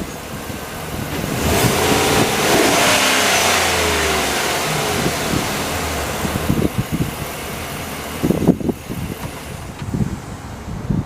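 2013 Chevrolet Silverado 3500 dual-rear-wheel pickup's engine revved once: the pitch rises over a couple of seconds, then falls back to idle, and it keeps idling.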